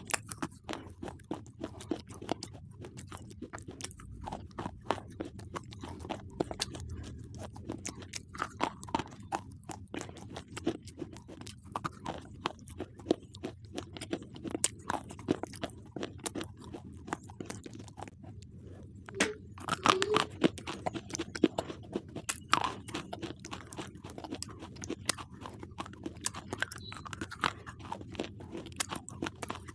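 A person biting and chewing slate pencils close to the microphone: a dense, continuous run of sharp, dry crunches, loudest around twenty seconds in.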